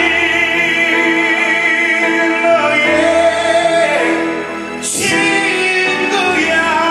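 Live ballad performance: band music with long held sung notes and choir-like backing voices. A sudden crash comes about five seconds in.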